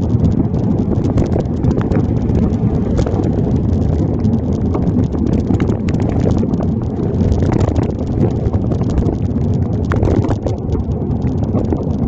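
Wind buffeting the microphone of a handlebar-mounted phone while a bicycle is ridden through rain. A dense, uneven patter of small taps and knocks runs throughout.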